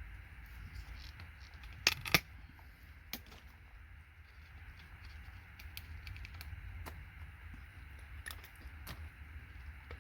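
Scattered clicks and clinks of hand tools and small electronic components as parts are pried off circuit boards and dropped, loudest as a sharp double clack about two seconds in, over a low steady hum.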